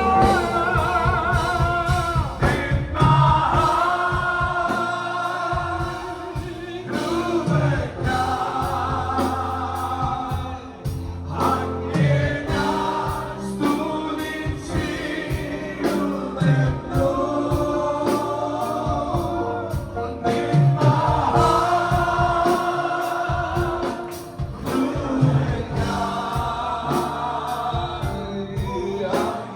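Gospel worship music: a group of voices singing long, held phrases with vibrato over a band with a steady beat.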